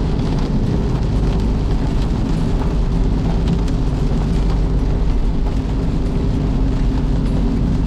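Heavy rain falling steadily, a dense unbroken noise with a deep rumble underneath.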